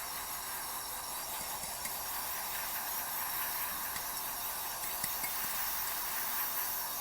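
A steady hiss of a spray jet blasting grit and grime out of a disassembled car coilover part.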